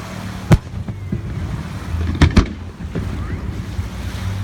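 Fireworks exploding: one sharp bang about half a second in, then two more close together a little past two seconds, over a steady background of wind and distant crowd noise.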